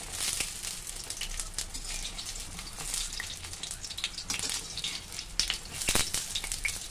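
Besan pakodis sizzling and crackling in hot oil in a metal kadhai while a slotted metal spoon turns them over. A sharper knock of the spoon against the pan comes near the end.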